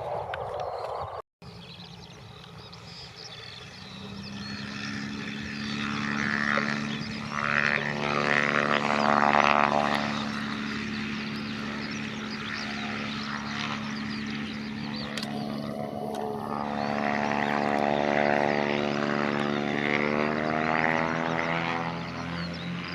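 Propeller aircraft engine and propeller drone, building from about four seconds in to a steady hum with a sweeping rise and fall as the aircraft passes. The sound drops out briefly about a second in.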